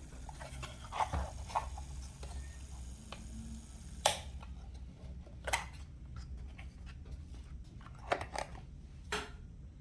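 Scattered sharp clicks and taps, the loudest about four seconds in, over a steady low hum.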